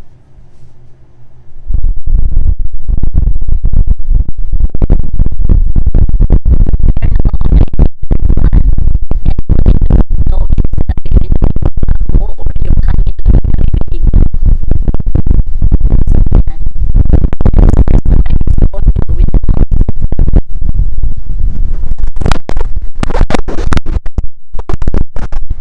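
Wind from an electric fan buffeting a Boya BY-MM1 mini shotgun microphone with no wind muff: a loud rumbling, crackling wind noise that starts suddenly about two seconds in and keeps on, close to overloading the recording.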